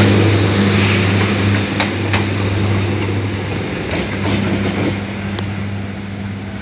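Train passing: a diesel locomotive's engine drones with a steady low hum over the rumble of the wheels on the rails, with a few sharp clacks, the sound easing off slowly.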